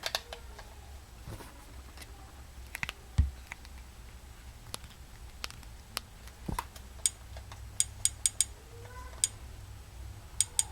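Scattered sharp clicks at irregular intervals, with a quick run of them about seven to eight seconds in and a couple of low thumps, the clicking noise being demonstrated on a 2.1 speaker setup.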